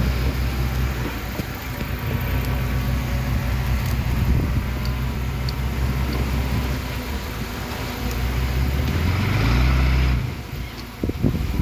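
Heavy earthmoving machine's diesel engine running at a steady low drone, then revving higher and louder under load about nine seconds in before dropping off sharply just after ten seconds.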